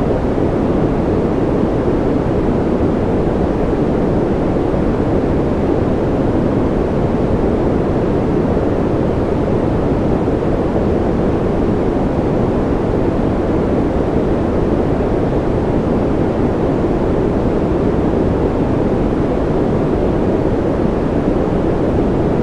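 Steady, unchanging white noise for a baby's sleep, deep and rushing rather than hissy, with most of its weight in the low-middle range.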